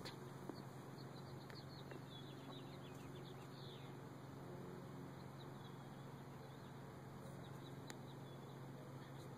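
Faint bird chirps during the first few seconds over a steady low hum, with a few soft clicks.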